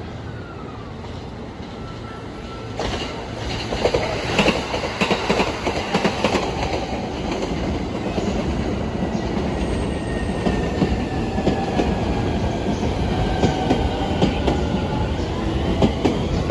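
Electric commuter train running over rail joints on a steel bridge: rapid, uneven wheel clacks begin about three seconds in and carry on over a loud rumble. A thin whine slides slowly in pitch above it.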